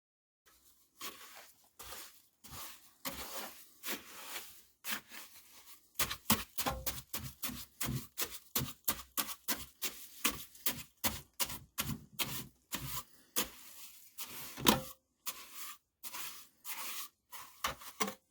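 An irregular run of short scrapes, rustles and knocks. They are sparse at first and come about three or four a second from about six seconds in.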